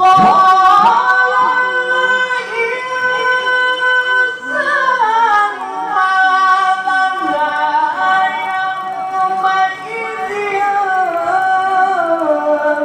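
A male Quran reciter's high voice holding one long melismatic phrase in tilawah style. The note is held steady for the first few seconds, then glides down about halfway through and winds on in wavering ornaments that step lower toward the end.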